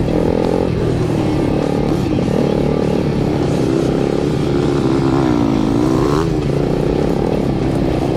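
Dirt bike engine running and revving up and down as it rides, with a quick rise in pitch about six seconds in.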